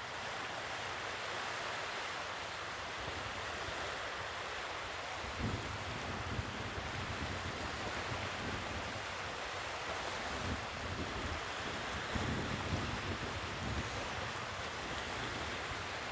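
Sea waves washing on the shore, with wind buffeting the microphone in low gusts from about five seconds in.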